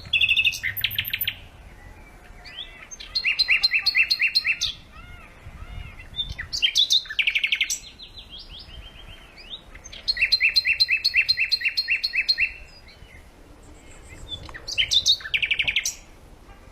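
A songbird singing in repeated phrases: five loud bursts of rapid, evenly spaced trilled notes, about seven a second, each phrase one to two and a half seconds long, with softer chirps and whistled slurs in between.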